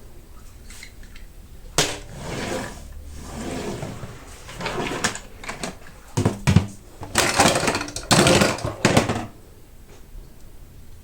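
Hot Wheels toy car packaging being handled and torn open: rustling and crackling in uneven bursts with a few sharp clicks, starting about two seconds in and loudest near the end.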